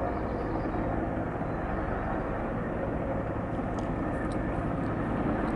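Helicopter flying overhead, a steady rotor and engine noise.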